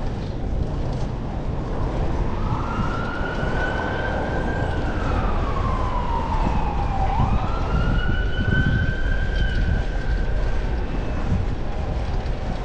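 Emergency vehicle siren wailing. The tone rises and holds, glides slowly down, then snaps back up and holds before fading out. Steady low wind and road rumble runs underneath.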